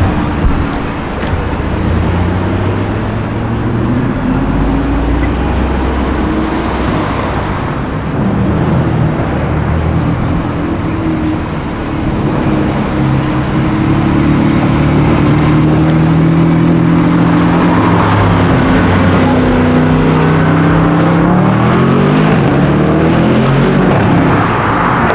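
High-performance sports car engine revving and accelerating, its pitch rising and falling repeatedly, with several quick climbs in pitch near the end.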